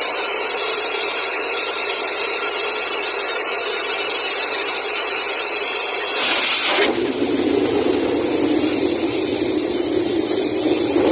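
Borewell being flushed with compressed air from a compressor: a loud, steady rush of air and spraying water over the running compressor engine. About seven seconds in the sound changes abruptly to a duller, lower rush.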